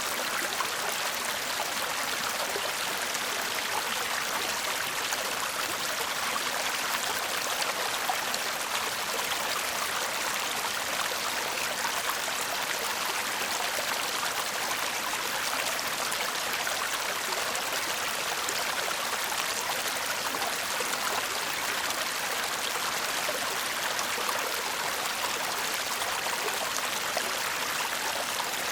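Brook babbling: a steady murmur of flowing water.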